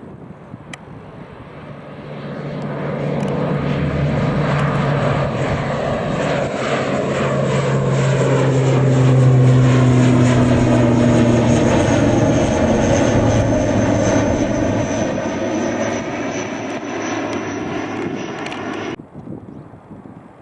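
An airliner's engines passing close by, swelling to a loud peak with a high whine that slowly drops in pitch, then stopping abruptly near the end.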